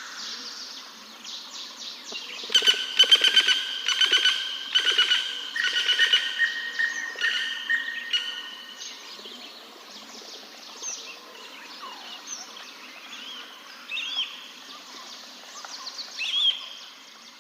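Birds chirping: a loud run of rapid, buzzy chirps starting a few seconds in and lasting about six seconds, then quieter scattered short chirps and whistles.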